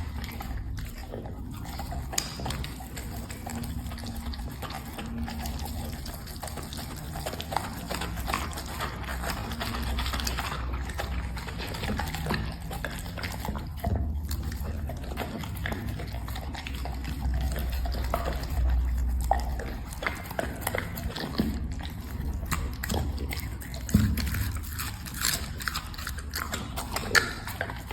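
A dog eating: a continuous run of small, irregular chewing and mouth clicks over a low background rumble.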